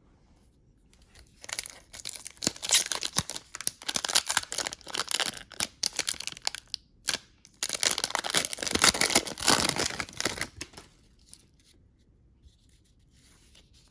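Crinkling and tearing of a trading-card pack wrapper as a pack is torn open and handled. It comes in two spells of a few seconds each, with a short break between them.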